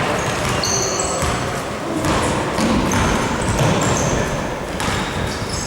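Sounds of an indoor court game in a sports hall. There are short, high squeaks of sneakers on the floor every second or so, and a ball bouncing, all with the hall's echo.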